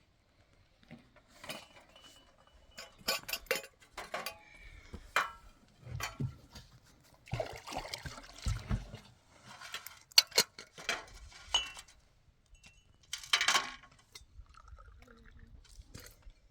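Kitchenware clinking and knocking as it is handled, with a couple of short rushing noises.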